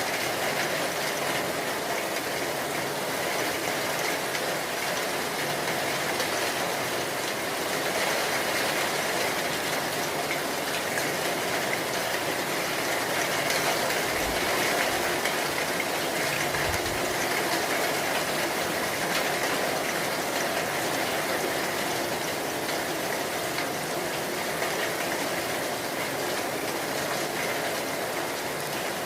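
Steady rainfall, a continuous hiss that swells a little about halfway through.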